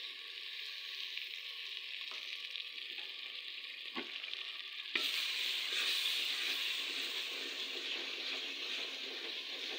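Onion-tomato masala with spices and freshly added yogurt sizzling in hot oil in a metal pot, stirred with a wooden spoon. A sharp click about halfway through, after which the sizzling is louder.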